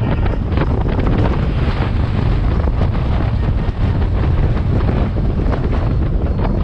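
Heavy wind buffeting the microphone on a moving motorcycle, with road and vehicle noise underneath.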